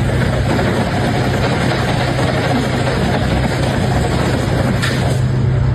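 A motor running steadily: a loud, even rushing noise over a low hum.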